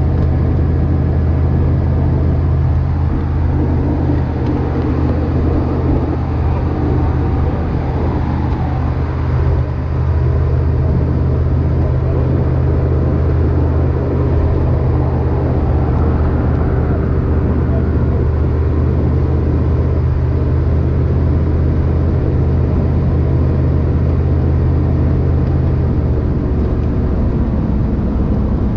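Steady low drone of a motor vehicle running, which shifts slightly near the end.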